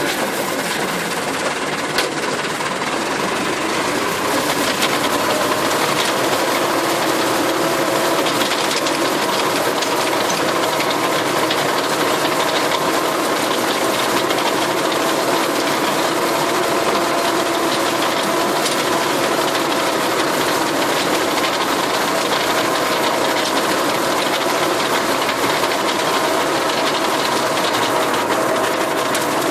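Tractor engine running steadily under load while its rotary tiller chops celery plants into the soil: a constant engine drone with a dense mechanical rush over it.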